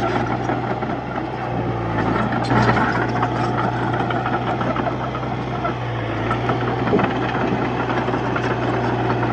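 Komatsu D31P bulldozer's diesel engine running steadily at a constant pitch, with a couple of short knocks about two and a half and seven seconds in.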